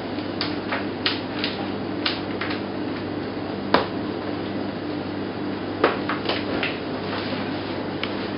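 Steady low mechanical hum with scattered light clicks and knocks; the sharpest knocks come about four seconds in and again near six seconds.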